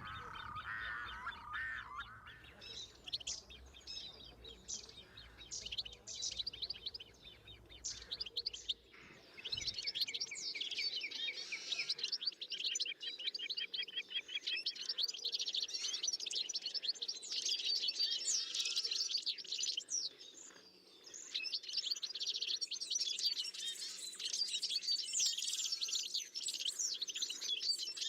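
Small birds chirping, many quick high calls overlapping. They are sparse at first and become a dense, continuous chorus from about ten seconds in.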